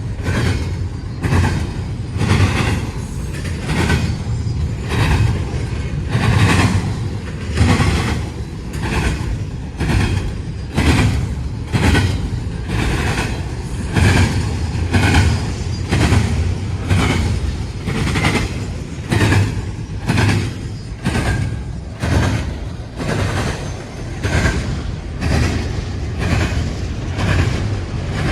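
A train rolling past, its wheels clacking over rail joints about once a second over a steady low rumble.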